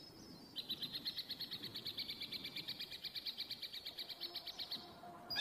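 A bird's rapid, even, high-pitched trill of about nine notes a second. It starts about half a second in and stops near the end.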